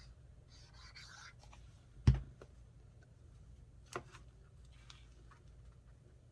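Desk-top crafting handling noise: faint scratchy paper rustles, a single sharp knock about two seconds in, and a lighter click about two seconds later.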